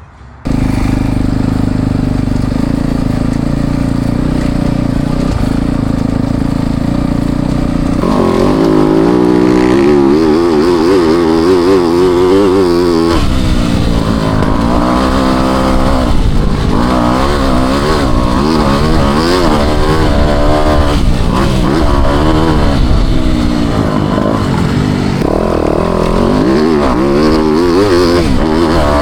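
Four-stroke motocross bike engine running hard. It holds a steady pitch for the first several seconds, then from about eight seconds in the revs rise and fall over and over as the throttle is worked.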